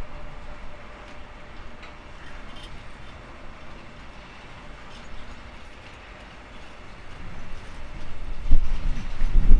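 Container freight train rolling past: a steady rumble of the wagons' wheels on the rails, with a faint thin tone above it. It grows louder near the end, with two heavy low thumps.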